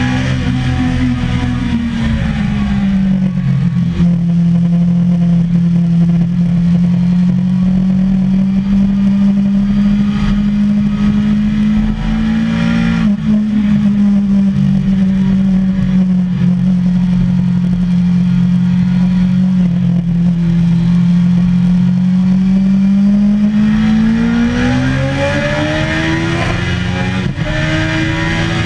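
Suzuki sportbike engine heard from on board at a track day, running at a fairly steady pitch with its gear indicator on second. The pitch dips slightly about two seconds in and climbs near the end as the bike accelerates.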